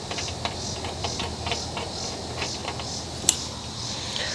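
Socket ratchet clicking in a run of light, regular ticks as a spark plug is turned out of a lawn mower engine, with one louder click about three seconds in.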